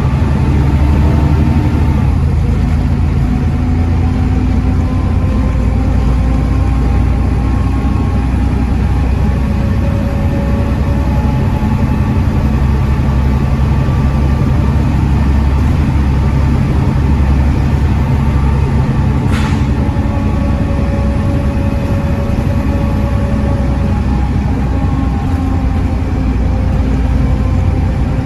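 Volvo D7C 7.3-litre diesel engine of a Volvo B7TL double-decker bus running while under way, its pitch rising and falling with engine speed. A single sharp click is heard about two-thirds of the way through.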